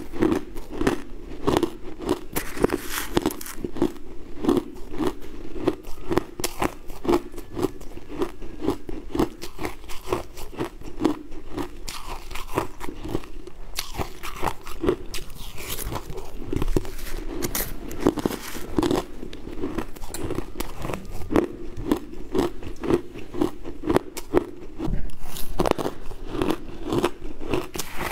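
Close-miked crunching and chewing as a person eats spoonfuls of a crunchy purple granular sweet food, crisp crunches coming several times a second without a break.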